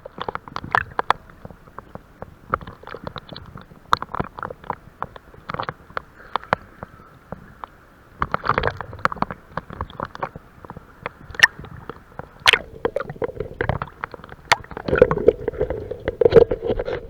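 Underwater sound heard through an action camera's housing in a stormy sea: many irregular sharp clicks and crackles over a low wash of moving water, with louder surges of water about eight seconds in and again near the end.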